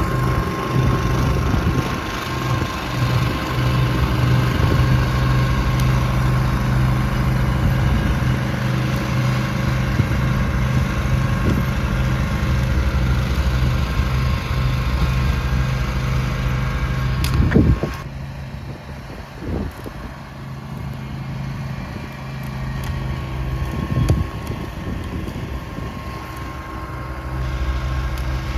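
Snowblower engine running steadily. About 17 seconds in there is a sharp knock, and after it the engine is a little quieter.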